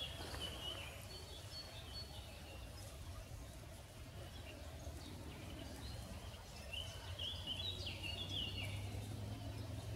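Outdoor ambience with a songbird singing short chirping phrases near the start and again about seven seconds in, over a low steady background hum.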